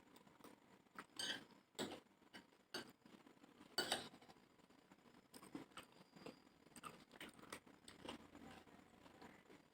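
Faint eating sounds: chewing and scattered light clicks and clinks, like cutlery on a plate, with a few louder ones in the first four seconds.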